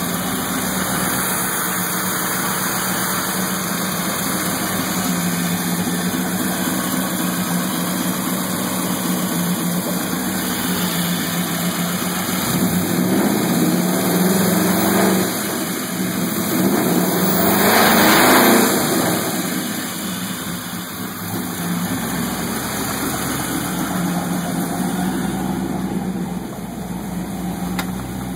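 Chevrolet 327 small-block V8 on Megasquirt 2 fuel injection, idling at about 900 rpm. The throttle is opened by hand twice around the middle, giving two short revs that rise in pitch and then fall back to idle.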